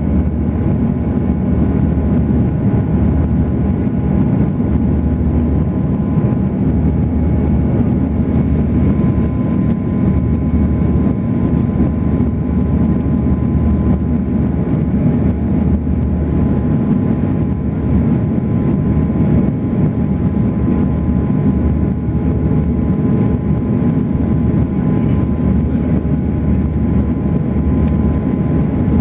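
Airbus A340 airliner in flight: a steady, loud drone of engines and rushing air, with a few thin steady whining tones over it.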